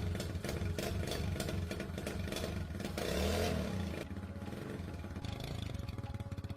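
750cc motorcycle engine running, blipped once about three seconds in, then settling back to a quick, even idle.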